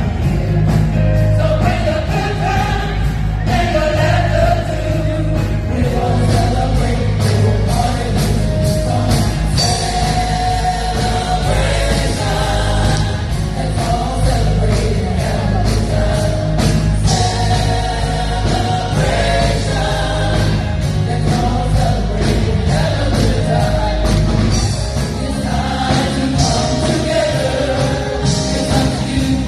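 Gospel choir singing with a band, a steady bass line and drums underneath.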